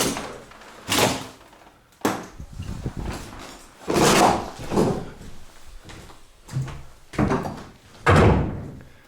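An irregular series of about seven knocks and scrapes, each followed by a short ring in the room: footsteps and debris underfoot on a rubble-strewn floor.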